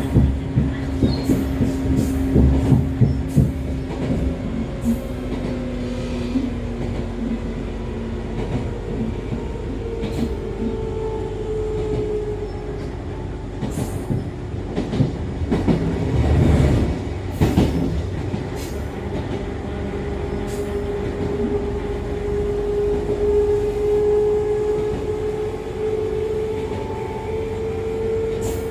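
Running sound inside Echizen Railway MC6101-series railcar MC6106, driven by MT54 DC series-wound traction motors, on the car the uploader labels as having an abnormal noise. A motor and gear whine sinks slowly in pitch over the first few seconds, then a higher whine climbs from about ten seconds in, over steady rumble and rail-joint clicks. A louder rumble comes around the middle.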